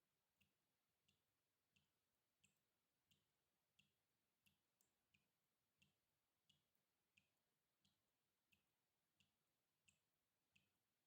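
Water dripping in a steady, even rhythm, about three faint drops every two seconds.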